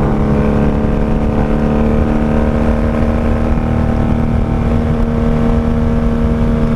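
Honda Magna VF750C's V4 engine running at a steady cruise, holding one constant pitch through the four pipes.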